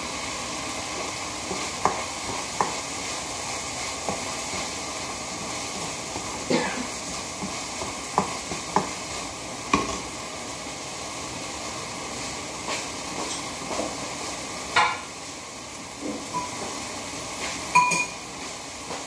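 Onion and tomato sizzling steadily in a hot nonstick wok, with the occasional knock and clink of a utensil stirring against the pan.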